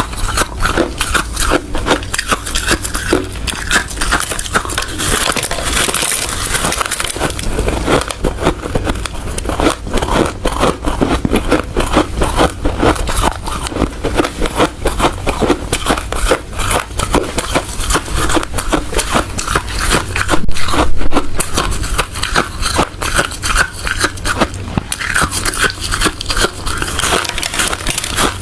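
Hard ice being bitten and chewed close to the microphone: a dense, continuous run of crunches and crackles, briefly louder about two-thirds of the way through.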